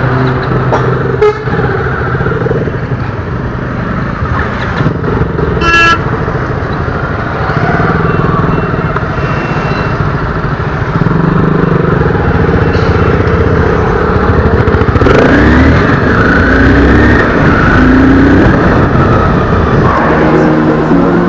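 Motorcycle engine running at speed, its pitch rising and falling several times past the middle as the throttle and gears change. A short horn honk sounds about six seconds in.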